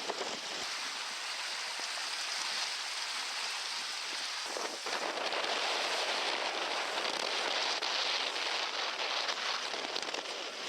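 Steady hiss of wind and water spray from sailing skiffs in fresh wind. It dips briefly about four and a half seconds in, then comes back louder.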